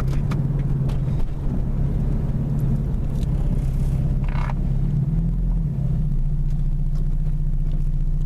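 Acura RSX's four-cylinder engine running at a steady, even pitch, heard from inside the car as it is driven, with a brief higher-pitched sound about four seconds in.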